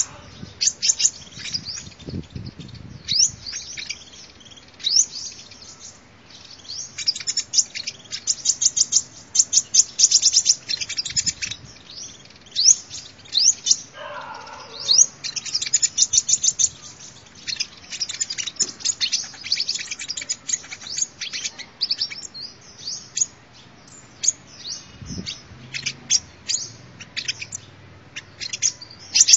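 Sunbird song: quick runs of short, high-pitched chirps and twittering trills, repeated with brief pauses.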